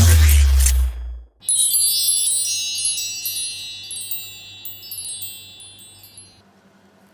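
A sudden heavy hit with a deep boom, then a shimmer of many high chime tones ringing out together and fading over about five seconds.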